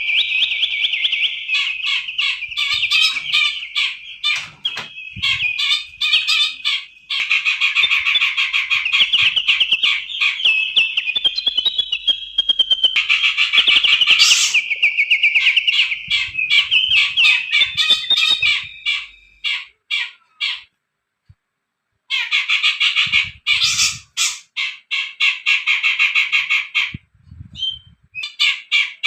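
Recorded songbirds singing in fast, dense chattering trills, a masteran track for tutoring captive songbirds. The recordings are spliced together with abrupt cuts and a brief silence about two-thirds of the way in.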